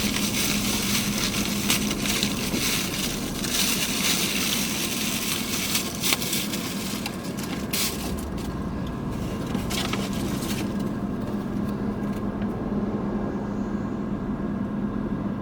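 Plastic packaging crinkling and rustling as small accessories are unwrapped and handled, busiest in the first six seconds or so and then sparser. A steady low hum runs underneath.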